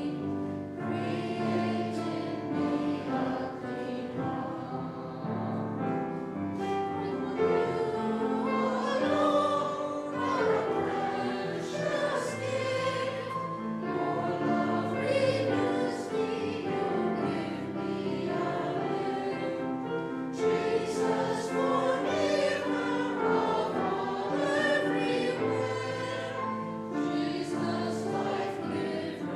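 Voices singing together in a church, a sung hymn or response with held chords and low sustained accompanying notes.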